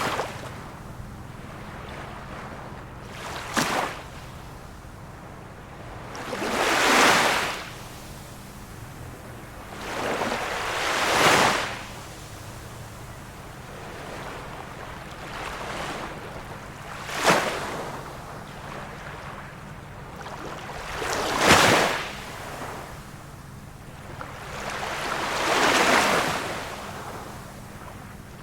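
Small waves of a calm sea breaking, about six in a row, one every four seconds or so: some short, sharp splashes and some longer swelling washes, over a steady low hiss of water.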